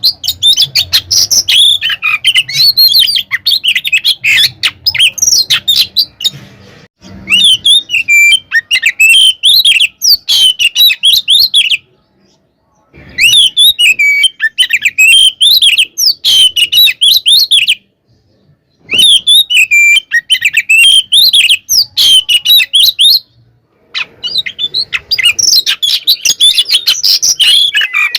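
Oriental magpie-robin (kacer) singing loudly in fast, jumbled runs of high chirps and whistles. The song comes in long bursts broken by three short silences, the first about twelve seconds in.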